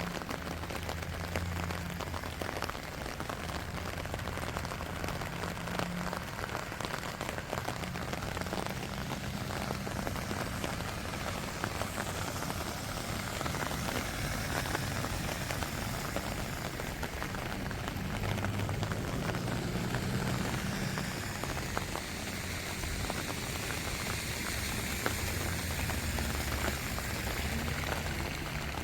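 Rain falling steadily, an even hiss dense with the ticks of single drops.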